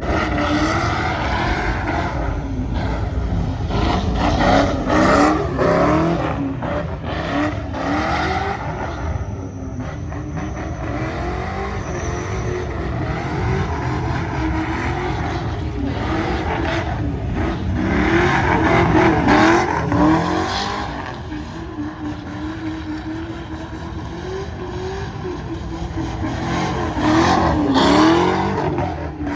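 Car engine revving hard in repeated surges, pitch climbing and dropping, with tire noise, as a car spins at a sideshow; the loudest surges come about a third of the way in, around two-thirds of the way through, and near the end.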